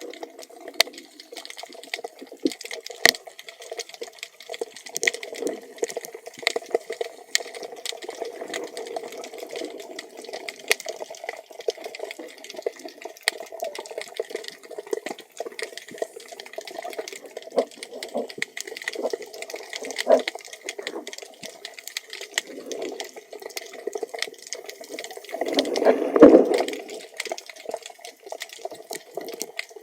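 Underwater water noise heard through a camera housing: a steady wash with scattered sharp clicks and crackles, and a louder surge of moving water near the end.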